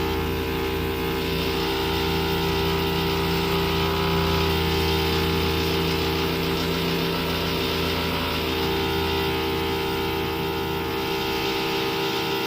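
Engine of walkway-construction equipment running steadily, a constant hum with several held tones and no clear strikes or rhythm.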